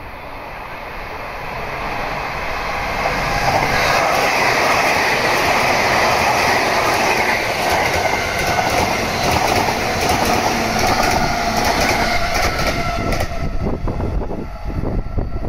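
E259 series Narita Express electric train approaching and passing at high speed, growing louder over the first few seconds into a steady rushing rumble of wheels on rail. Rapid clicks of the wheels running over rail joints come through in the second half. Near the end the sound drops abruptly to a lower rumble with separate knocks.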